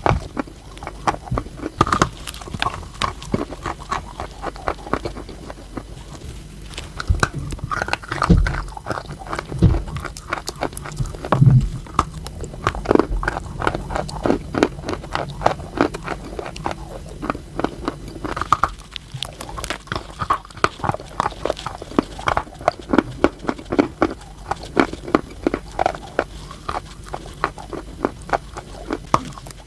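Close-miked crunching and chewing of chalk: a steady run of irregular sharp crunches and crackles as pieces are bitten and chewed, with a few heavier crunches about a third of the way in.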